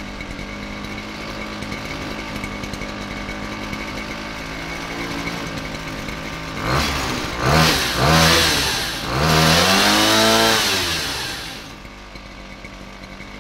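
33cc Mototech pocket bike's small two-stroke engine, still warming up, idling steadily, then revved three times about seven seconds in, each rev rising and falling in pitch and the last held longest, before dropping back to a quieter idle.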